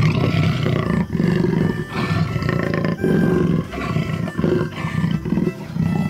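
Jaguar roaring in a run of rough, low calls about a second each, one after another.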